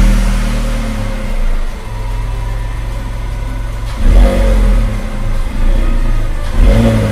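Dubbed-in truck engine sound effect, a low steady running rumble that surges louder twice, about four seconds in and again near the end.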